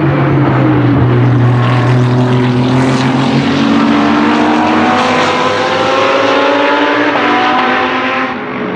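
Lamborghini Huracan GT3 Evo's naturally aspirated V10 race engine under full throttle, its pitch rising steadily as it accelerates, then falling away abruptly near the end.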